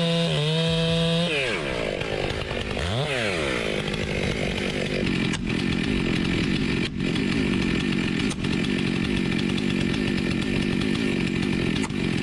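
Two-stroke chainsaw running at high revs and cutting wood, its pitch dipping and climbing again about three seconds in, then running steadily under load.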